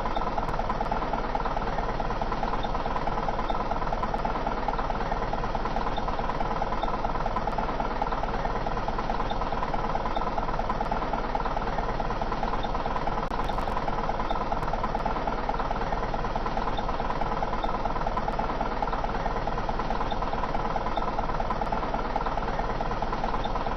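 Small electric motor and gearbox of a toy RC dump truck running steadily, a fast, even whir.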